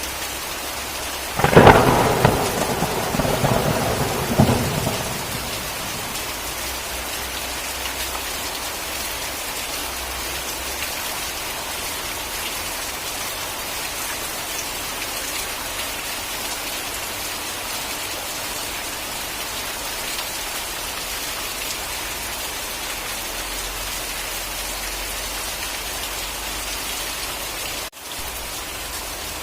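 Steady rain falling, with a sharp clap of thunder about a second and a half in that rumbles on for about three seconds, with a second crack near its end. The rain cuts out for an instant near the end.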